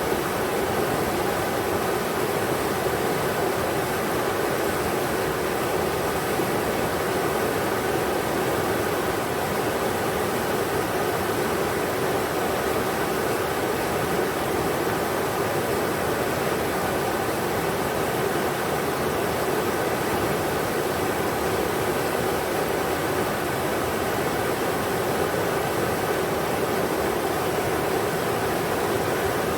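The Englishman River's flowing water, a steady, even rush with no breaks or changes.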